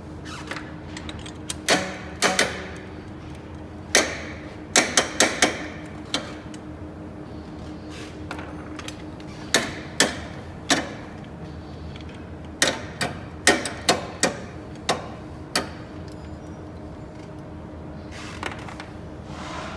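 Metal hand tools clinking and knocking against engine parts during engine disassembly: irregular sharp clicks and clanks, some in quick clusters, over a steady low hum.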